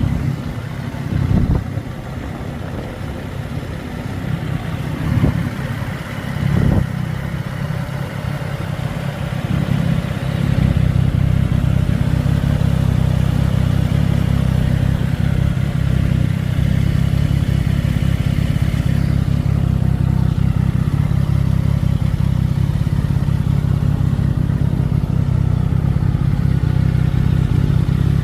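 CFMOTO 675SS inline-three engine running: uneven for the first ten seconds with a few short rises in pitch and level, then settling to a steady idle.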